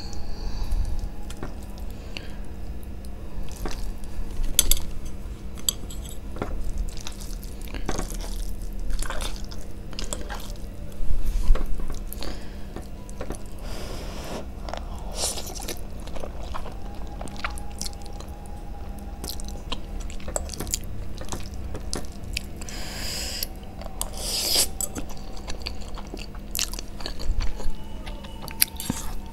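Close-miked eating of spicy Korean instant noodles: wet chewing with many sharp mouth clicks, and a few longer breathy sounds, over a steady low hum.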